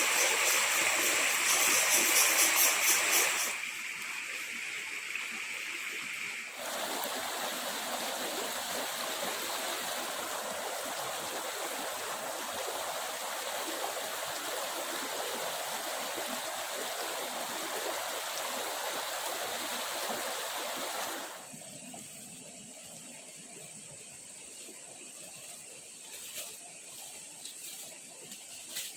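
Water running in a stream, a steady rush that changes abruptly between edited takes. A fast high pulsing rides on it at first, and about three-quarters of the way through it drops to a quieter hiss with a few faint clicks.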